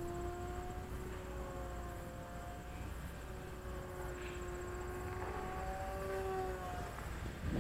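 E-flite Timber RC plane's electric motor and propeller droning in flight, the pitch shifting up and down as it flies past and the throttle changes, over low wind rumble on the microphone.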